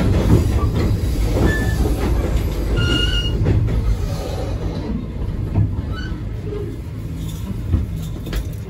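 Passenger train heard from aboard a 25G coach: steady low rumble and clatter of wheels on rail, with a few brief wheel squeals in the first half and once more later. The noise eases off slightly over the seconds.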